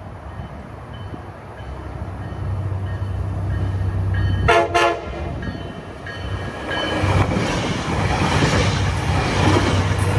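Tri-Rail commuter train approaching and passing a grade crossing. The low drone of its diesel grows louder, there are two quick horn toots about four and a half seconds in, and then the wheels rumble and clatter over the rails as the bilevel cars go by. A crossing bell rings faintly in the first half.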